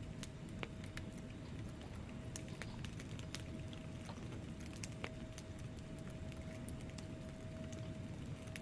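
Wood fire burning in a fireplace: a steady low rumble with scattered sharp crackles and pops from the logs. A faint steady tone runs underneath.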